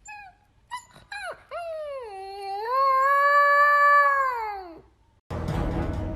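A dog gives a few short yelps, then one long howl of about three seconds that dips and rises in pitch before falling away. Music starts near the end.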